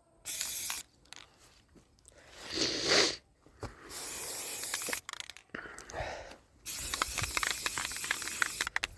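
Aerosol spray-paint can hissing in several bursts: a short one just after the start, another about four seconds in, and a longer one in the second half. A brief rushing swell comes about three seconds in.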